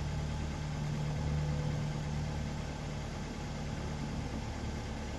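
An engine idling steadily with a low hum, easing off slightly about two seconds in.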